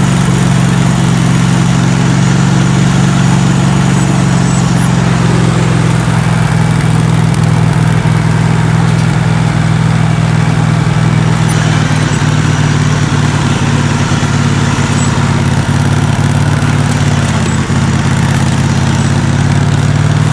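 Engine of a ride-on vehicle running steadily at a constant speed while being ridden, its note shifting slightly about halfway through.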